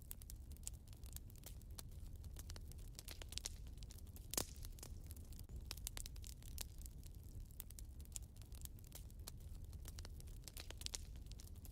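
Wood fire burning in a fireplace, crackling with scattered small pops and one louder pop about four seconds in, over a low rumble.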